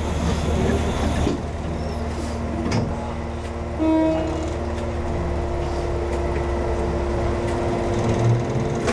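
Konan Railway 7000-series electric train (ex-Tokyu 7000) as heard from the cab after its doors close: steady running and equipment hum with scattered clicks. A steady pitched tone comes in about four seconds in and holds.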